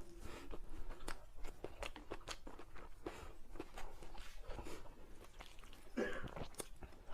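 Close-miked chewing of crisp food: a fast, irregular run of small crunches and crackles, with a louder mouth sound about six seconds in.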